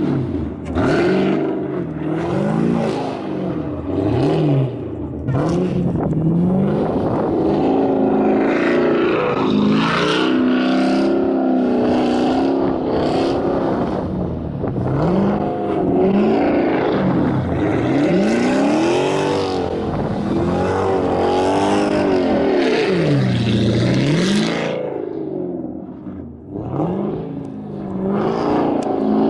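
Camaro ZL1's supercharged V8 revving up and down over and over, its pitch rising and falling every second or two as the car is slid around on snow. It eases off briefly about 25 seconds in, then picks up again.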